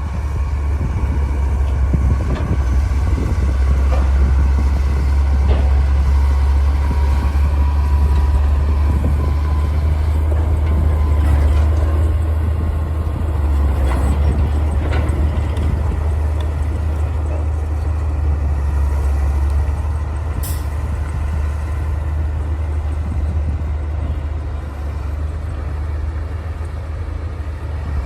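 Bulldozer diesel engine running steadily with a deep rumble, a few light knocks over it and a brief sharp click about twenty seconds in.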